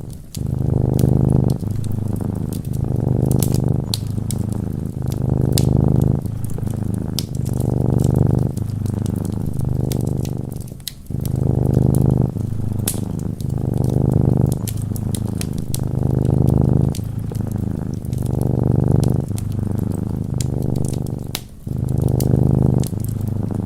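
Domestic cat purring in a steady rhythm of breaths, each swell about a second long, with wood fire crackles and pops scattered over it.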